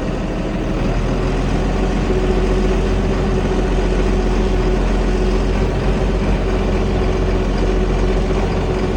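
International 1566 tractor's turbocharged six-cylinder diesel running steadily while pulling a cultivator, with a thin steady whine coming in about two seconds in.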